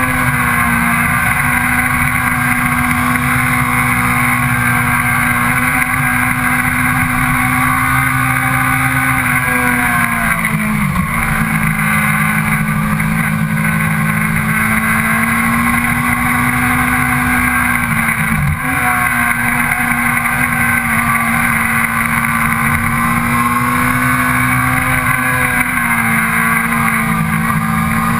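Sport motorcycle engine pulling hard at high revs, heard from on the bike. The revs sag and climb back about ten seconds in, again around eighteen seconds, and once more near the end.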